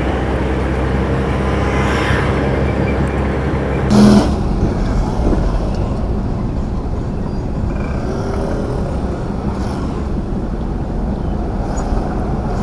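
Truck engine running while driving, with road and traffic noise. A brief loud blast sounds about four seconds in.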